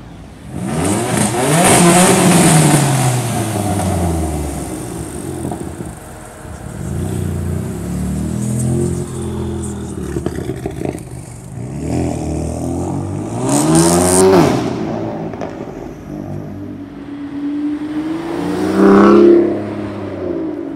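Several performance car engines revving and accelerating one after another: a loud run up in revs about a second in that falls away over the next few seconds, a softer run in the middle, a sharp rising rev about fourteen seconds in that cuts off suddenly, and another short loud rev near the end.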